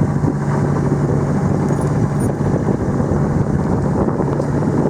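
Sailing yacht's inboard engine running steadily under way, a constant low hum.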